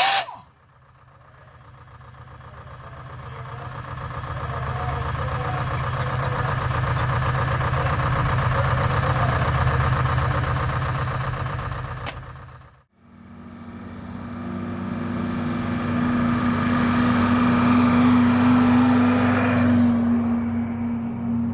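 Antique truck engine running, growing louder over several seconds. After a sudden break about thirteen seconds in, a second truck engine with a steady low hum rises and keeps running.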